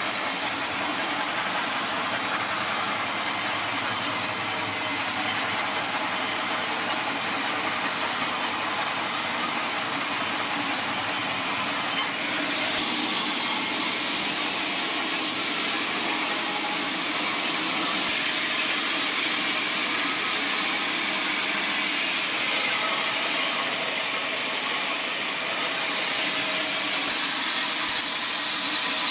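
Sawmill machinery running with a loud, steady noise; its tone shifts slightly about twelve seconds in.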